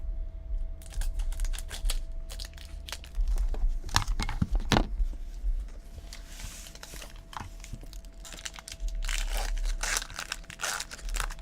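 Crinkling and tearing of a trading-card pack wrapper being opened by hand, with scattered clicks and rustles from handling the cards and packaging.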